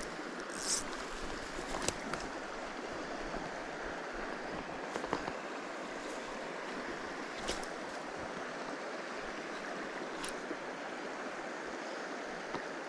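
Shallow mountain stream flowing in a steady, even rush of water, with a few brief sharp ticks or small splashes.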